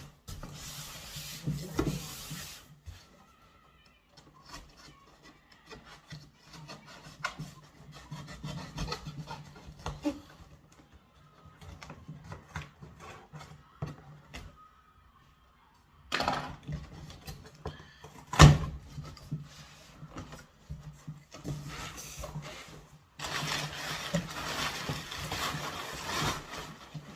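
A cardboard appliance box being cut and opened, with cardboard and packing scraping and rustling in fits and starts. There is one sharp knock about two-thirds of the way through and a longer stretch of rasping near the end, over a low steady hum.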